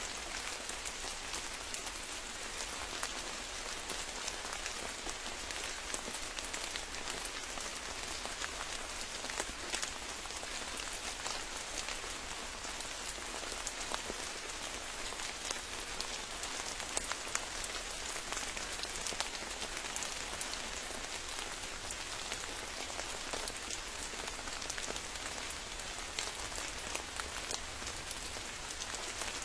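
Steady rain: an even hiss of many drops pattering, dotted with small sharp drop hits, holding at one level without let-up.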